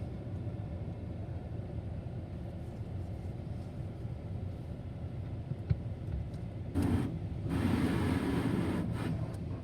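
Automatic tunnel car wash heard from inside the car: a steady low rumble of the wash machinery, then from about seven seconds in a loud rushing wash sweeping over the car for about two seconds before easing off.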